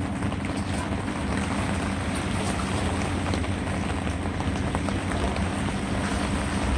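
Steady rain and wind noise with scattered raindrop ticks, over a low steady hum.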